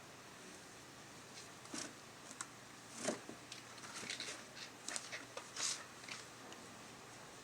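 A series of short, soft rustles and ticks, scattered irregularly over several seconds, with quiet room tone in between.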